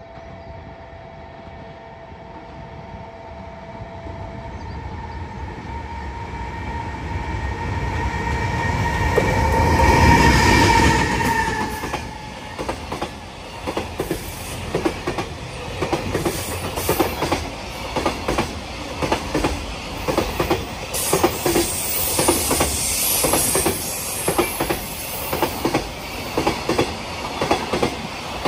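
Electric freight locomotive approaching and passing close with a rising hum, loudest about ten seconds in. A long train of container wagons follows, its wheels clattering over the rail joints in a steady rhythm of clicks.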